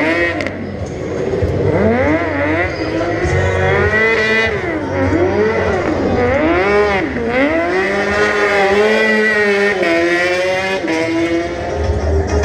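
A racing engine revving hard and dropping back again and again, its pitch swinging up and down about once a second over a low rumble.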